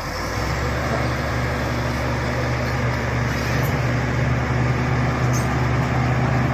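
Shantui SD16 bulldozer's diesel engine running steadily with a low, even hum.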